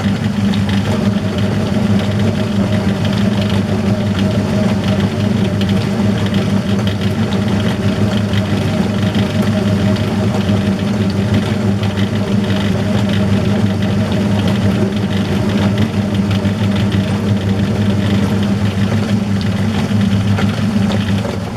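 Metal lathe running at slow speed with a steady hum while a 1 mm knurling tool is pressed into the edge of a turning dial, rolling a knurl, with a fine continuous crackle over the hum.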